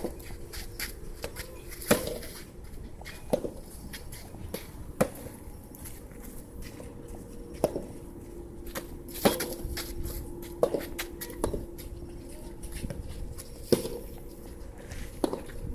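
Soft tennis rally: sharp pops of the rubber ball being struck by rackets and bouncing on the court, one every second or two, with wind rumbling on the microphone.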